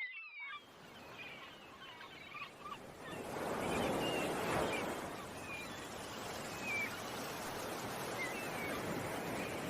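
Ocean waves washing ashore, swelling about three seconds in, with small birds chirping now and then.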